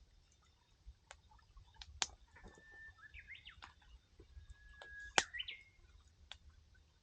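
A wood campfire crackling, with a few sharp pops, the loudest about two and five seconds in. A bird calls twice over it, each call a held whistled note breaking into quick warbling notes.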